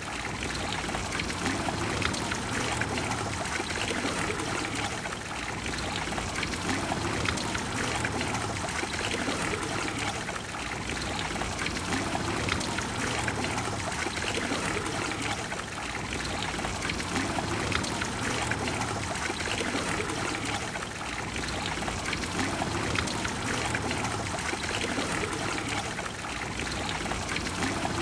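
Water of the Trevi Fountain splashing and cascading into its basin: a steady rush that gently swells and eases every few seconds.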